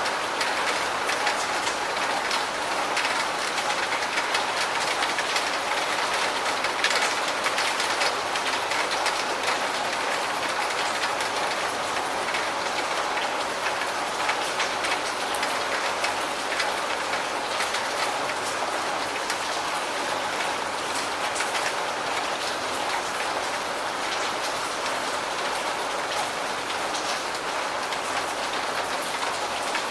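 Steady rain falling: an even hiss of rain with a dense patter of individual drops ticking through it.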